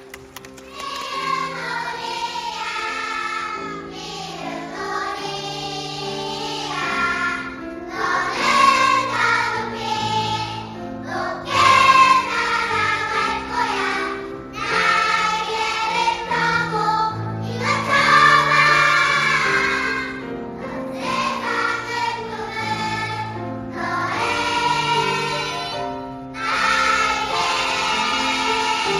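A choir singing a piece in parts, in phrases separated by short pauses, over sustained lower accompanying notes.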